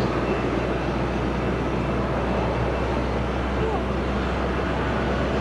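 Jet aircraft engines running with a steady, unchanging noise and a low hum.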